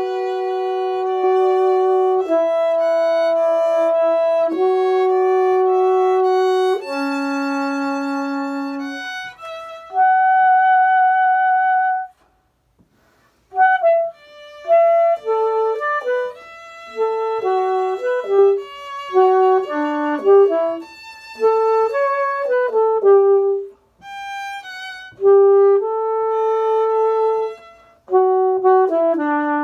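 Violin and saxophone duet playing a contemporary chamber piece: long held notes at first, a short pause about twelve seconds in, then a quicker passage of shorter notes moving between the two instruments.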